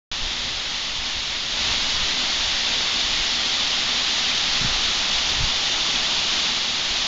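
Small waterfall splashing: a steady, even rush of falling water, slightly louder after the first second and a half.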